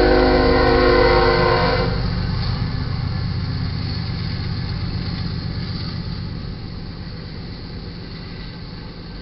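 Freight locomotive air horn sounding a chord that cuts off about two seconds in, followed by the diesel locomotives and the rumble of tank car wheels on the rails, fading steadily as the train passes.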